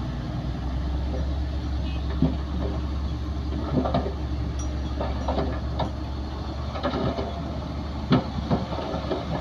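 Heavy diesel earthmoving machinery running: a steady low engine drone with scattered metallic clanks and squeals, like steel tracks and blades working soil.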